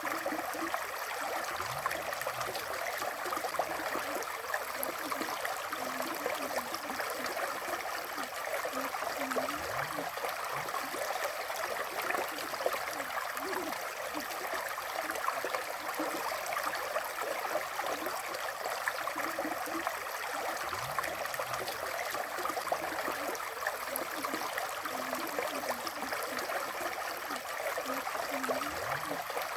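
River water flowing over a shallow bed, a steady, unbroken rushing and burbling.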